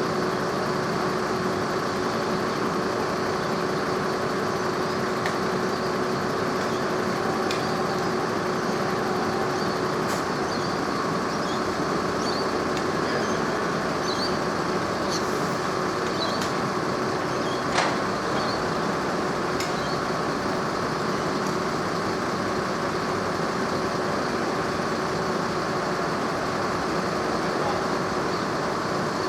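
Steady machine hum with a steady tone through the first half, a few light clicks, and one sharper knock about 18 seconds in.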